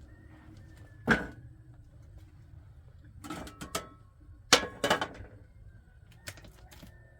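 A series of sharp knocks and clatters: one about a second in, a busier cluster between about three and five seconds, and a lighter knock near the end, with a brief ringing tone after some of them.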